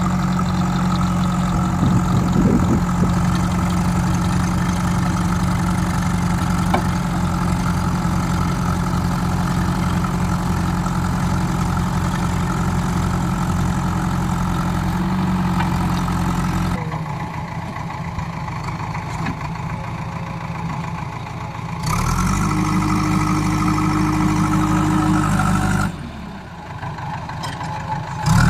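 Heavy diesel machinery engine running steadily under a mud recovery pull, with its note and loudness shifting several times in the second half.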